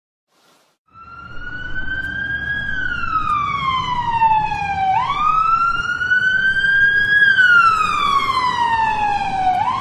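Ambulance siren wailing. It starts about a second in, and its pitch swings slowly up and down in a repeating cycle of roughly four and a half seconds, over a low rumble.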